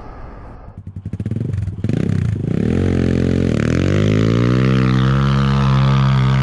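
Enduro dirt bike engine chugging low and unevenly, then revving up about two seconds in and holding a steady, higher throttle.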